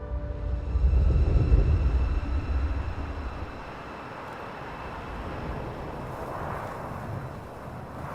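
Motorcycle engine rumbling loudly for the first few seconds, then settling into a quieter, steady running noise.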